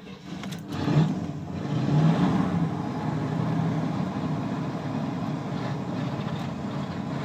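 1985 GMC 2500 van's carbureted engine running rough and cold just after a cold start, its choke not working after eight months of sitting. It swells about a second in, then holds a steady idle that is expected to stall because the engine is still cold.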